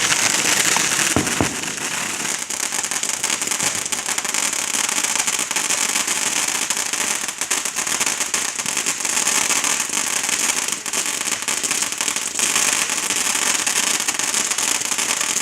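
Fireworks crackling and hissing steadily: a dense, unbroken run of tiny pops and sizzle that cuts off suddenly at the end.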